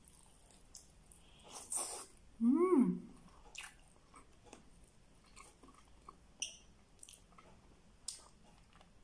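Close-miked chewing and lip-smacking of someone eating chicken adobo and rice by hand, with scattered small clicks and smacks. About two and a half seconds in, a short hummed "mm" rises and falls in pitch.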